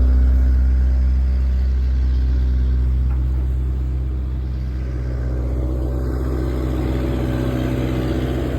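Volvo vibratory road roller's diesel engine running steadily with a deep, low drone, dipping slightly in level midway and building again near the end.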